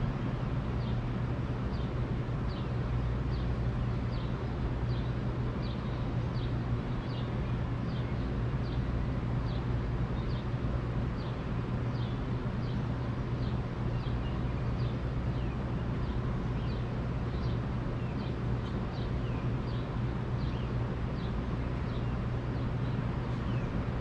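A small bird repeating a short, high, falling chirp about once or twice a second, over a steady low rumble.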